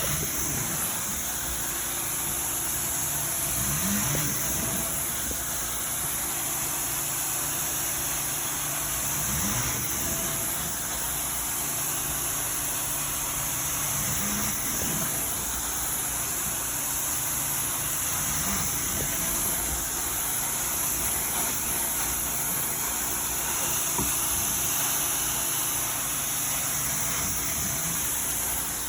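Carpet-cleaning vacuum equipment running steadily, a constant hum under a strong high hiss.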